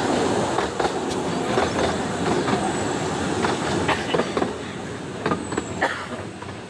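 Narrow-gauge train of the 15-inch-gauge Ravenglass & Eskdale Railway running along the track: a steady rumble of the wheels with irregular clicks and knocks over the rails, and a faint high wheel squeal twice.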